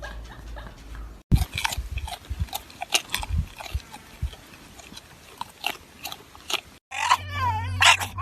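A pet dog chewing, with scattered crunches and clicks. Near the end comes a loud, wavering high-pitched whine.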